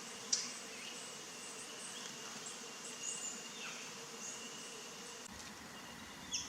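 Bees buzzing in a steady hum, over a thin, high, steady insect drone. A few brief, sharp, high sounds cut in, the loudest about a third of a second in and again near the end.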